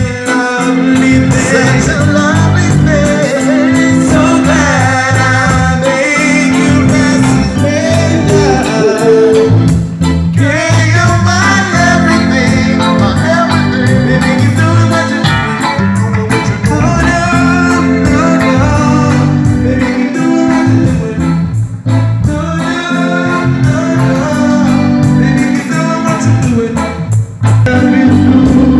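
Live reggae band playing with a singer over bass and guitar, loud and continuous.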